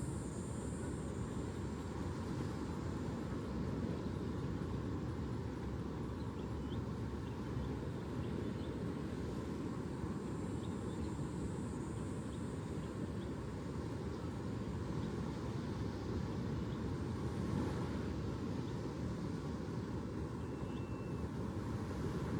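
Steady low rumble of distant road traffic, even in level throughout, with a few faint high chirps.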